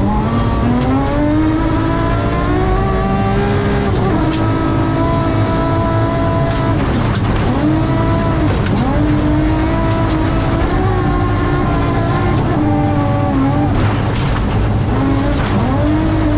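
BMW M3 rally car's engine at speed, heard from inside the cabin: it climbs in pitch, drops sharply at a gear change or throttle lift about four seconds in, then holds and dips several more times as the car is driven hard, over a steady low rumble from the tyres on the gravel.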